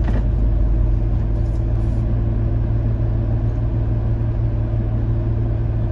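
A vehicle's engine idling steadily: a low, even hum with no revving.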